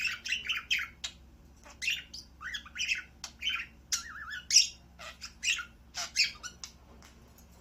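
Budgerigar chattering: quick irregular runs of short chirps and chatter notes, with a wavering warbled note about four seconds in.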